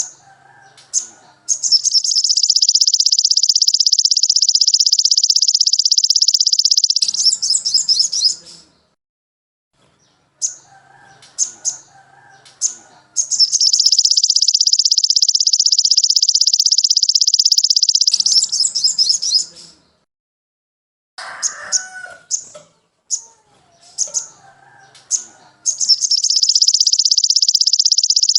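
Recorded songbird song played as a training track. Short high chips and lower warbled notes lead into a long, very fast, high-pitched trill of about five seconds. The same cycle comes round three times with short silent gaps, as in a looped recording.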